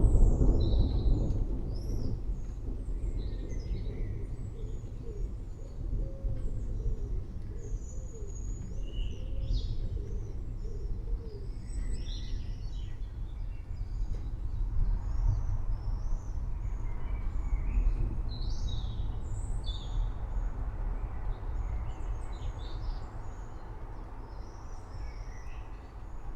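Several birds chirping and calling in short scattered phrases over the steady low rumble of a thunderstorm. A roll of thunder dies away in the first couple of seconds.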